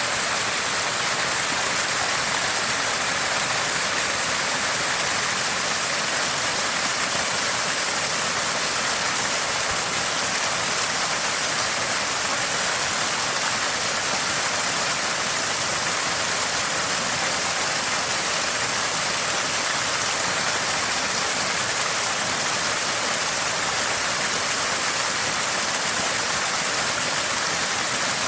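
Water gushing and gurgling from a small spring, a steady splashing rush with no breaks.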